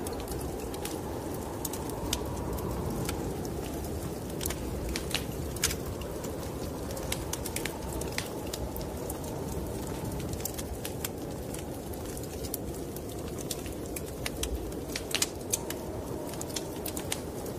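Wood fire crackling in a fireplace, with many small sharp pops and a cluster of louder ones near the end, over the steady low rush of snowstorm wind.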